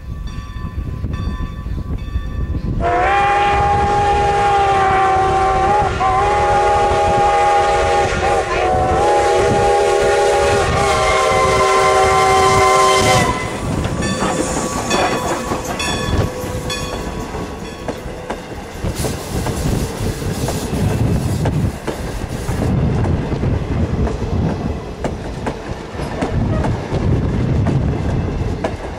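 Steam locomotive whistle of a 2-10-0 Decapod blowing one long chord for about ten seconds, dipping briefly in pitch twice. It is followed by the steady rumble and rail noise of the steam train running past.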